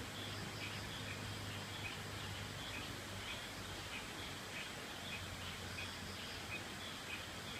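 Rainforest creek ambience: the steady rush of running water under a stream of short, high chirps from small animals, repeating a few times a second.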